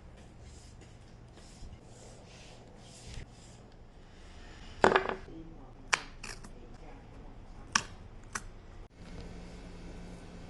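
Washi tape packaging being handled: a run of soft rustling strokes, then several sharp clicks and snaps, the loudest about five seconds in.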